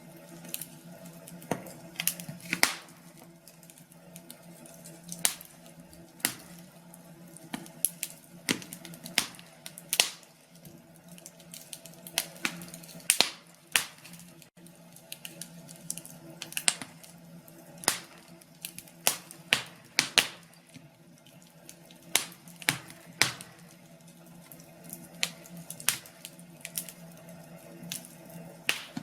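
Wood fire in a fireplace crackling, with irregular sharp pops and snaps, some louder than others, over a faint steady hum.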